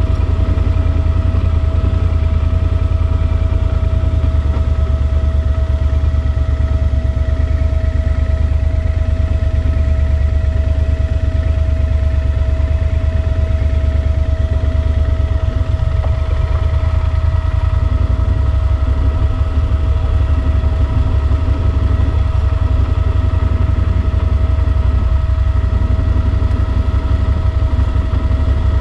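Yamaha Super Ténéré XT1200Z's parallel-twin engine running at a steady cruise, with a deep low rumble and a steady whine held at one pitch.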